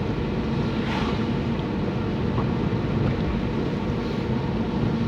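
Steady car cabin noise while driving in heavy rain: engine hum with tyre noise from a wet road.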